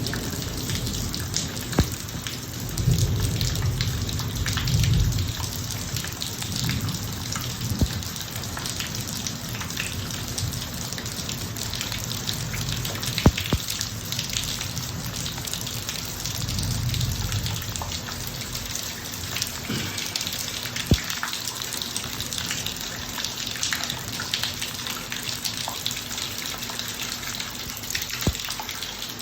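Steady heavy rain falling on a driveway, with many sharp drop impacts ticking through it. Low rumbles of distant thunder swell up a few seconds in and again just past the middle.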